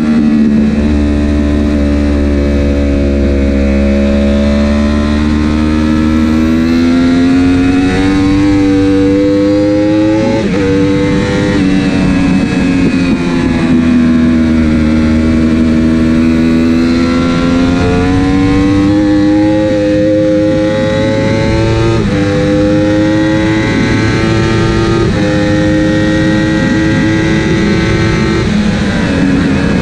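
Superbike engine heard onboard, its pitch sliding down and up with throttle and jumping several times at gear changes. The quickshifter and autoblip were not working because of a faulty rear wheel sensor, so the rider was shifting with the clutch.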